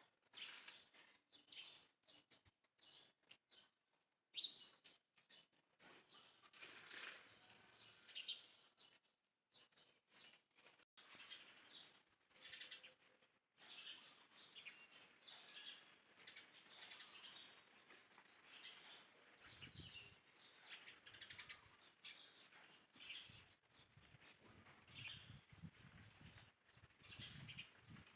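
Faint, high chirping calls that come and go, with low rumbles joining in during the second half.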